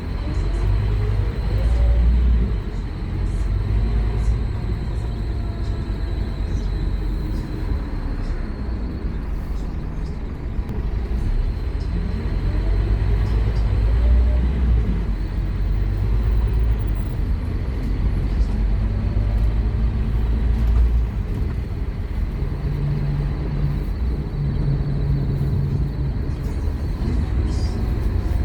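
Scania K230UB Omnilink bus's diesel engine under hard acceleration, its pitch rising as it pulls away twice, with steadier running in between and a held tone near the end.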